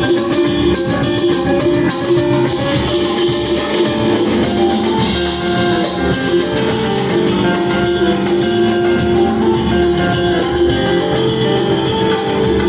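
A live band playing a song at full volume: a drum kit keeps up a busy beat under sustained guitar and other instrument lines.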